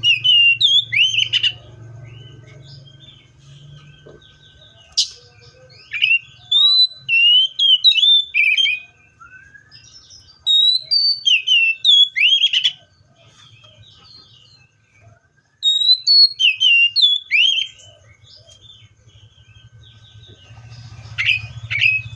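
Magpie-robin singing: loud phrases of sliding, whistled notes and quick chirps, in bouts of a couple of seconds with short pauses between, about five bouts in all.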